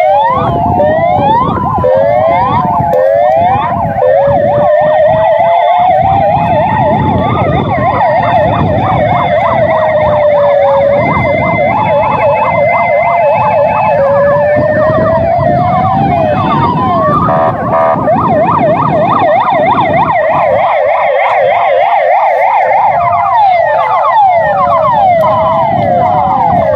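Several fire engine sirens sounding at once. Slow wails, fast yelps and two-tone hi-lo patterns overlap, over a low rumble.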